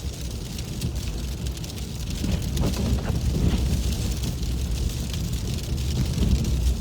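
Car driving on a slush-covered road, heard from inside the cabin: a steady low rumble of engine and tyres with a hiss of slush and falling sleet.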